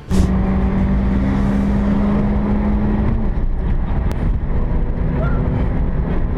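Loud, steady road and engine noise of a car driving, with a steady low hum held for about the first three seconds.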